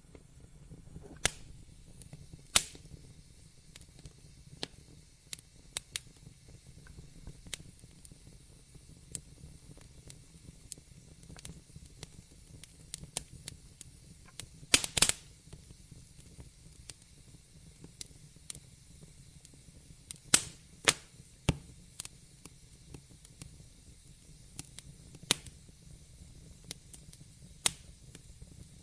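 Wood fire crackling in a fireplace: irregular sharp pops and snaps over a faint low rumble and hiss, with a cluster of louder pops about halfway through.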